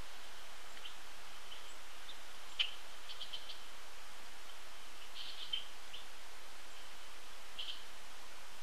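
Birds at a feeder giving scattered short, high chirping call notes, including a quick run of four notes about three seconds in, over a steady outdoor hiss. A single sharp click about two and a half seconds in.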